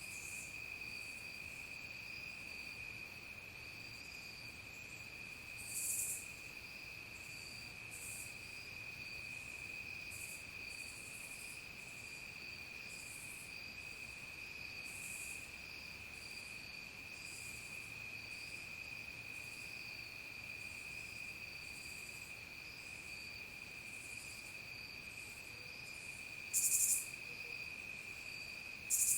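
Evening insect chorus of crickets: a steady, shrill, high trill, with short buzzy calls from other insects every second or two, three of them louder, about six seconds in and twice near the end.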